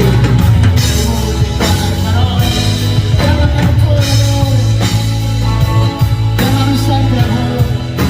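Live band playing an instrumental passage of a rock-backed song, with drums keeping a steady beat.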